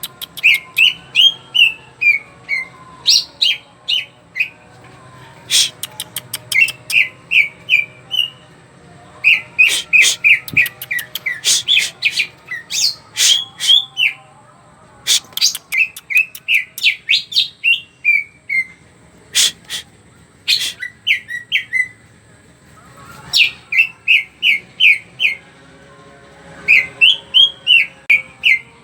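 Green leafbird (cucak ijo) singing in bursts of rapid, high chirped notes, phrase after phrase with short pauses between, mixed with sharp clicks.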